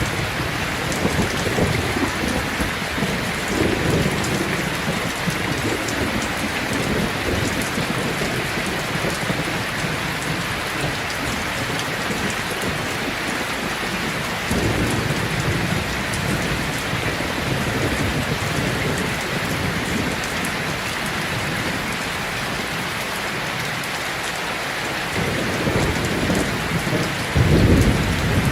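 Steady heavy rain with low rolls of thunder swelling and fading. A louder thunderclap comes near the end.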